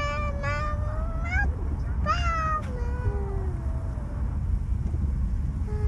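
A young child making wordless high-pitched vocal sounds: two drawn-out gliding calls that sound like meowing, then fainter ones near the end. They sit over the steady low rumble of a car's cabin on the move.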